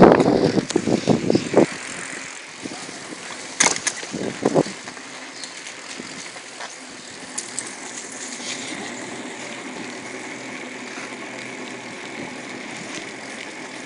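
Bicycle being ridden along a street: a steady rolling noise, with loud irregular rumbling in the first couple of seconds and two sharp knocks around four seconds in.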